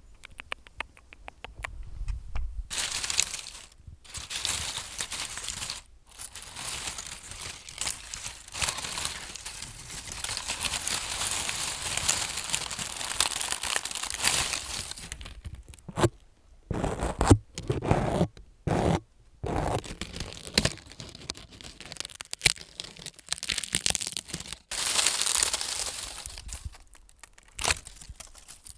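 Close-up crinkling and scratching right at the microphone, an ASMR trigger, opening with a quick run of light taps and broken by several short pauses.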